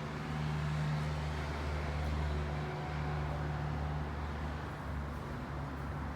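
Steady low mechanical hum with a background of even noise, like an engine or motor running without change.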